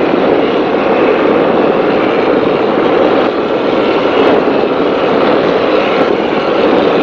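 Offshore racing powerboat running flat out, heard from on board: a loud, steady rush of engine noise, wind and water against the hull.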